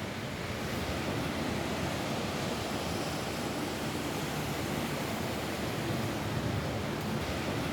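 Steady rain falling on a roof, an even hiss without breaks or separate drops standing out.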